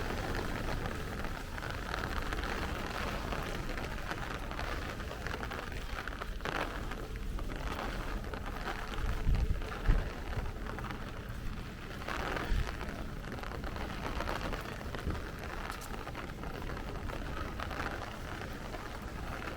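Steady heavy rain falling in a city street, with a few brief low thumps in the middle.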